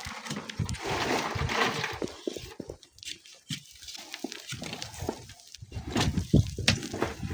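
Strong wind gusting across the microphone. A hissing rush comes in the first couple of seconds, then a quieter stretch with scattered small ticks, and uneven low buffeting gusts come back near the end.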